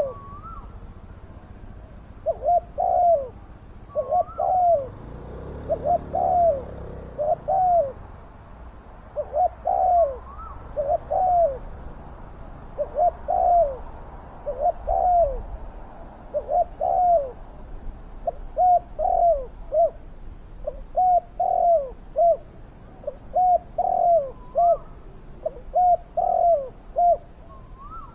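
Spotted doves cooing over and over, each phrase a group of two or three short notes, with a few fainter higher calls in between.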